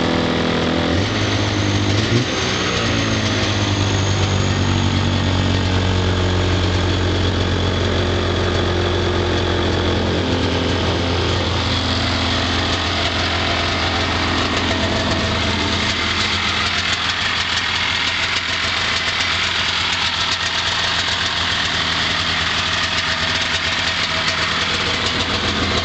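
1992 Polaris Indy 500 snowmobile's two-stroke twin idling steadily after a cold start on half choke. The engine revs up briefly about two seconds in.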